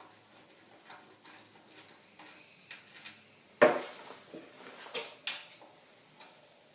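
Metal hand tools and engine parts clinking and clanking as they are handled: scattered light clicks, one loud sharp clank about three and a half seconds in, and a small cluster of clinks with a brief high metallic ring about five seconds in.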